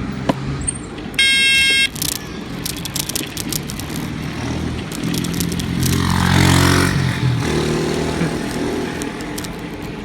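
A horn sounds once, briefly, about a second in. Then a jeepney's engine passes close, swelling to its loudest around six and a half seconds in and fading, over steady wind and road noise.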